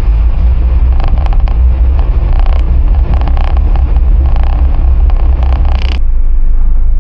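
Boat engine running steadily with a deep, constant rumble. Between about one and six seconds in, an irregular rattling and clatter sits over it and stops suddenly.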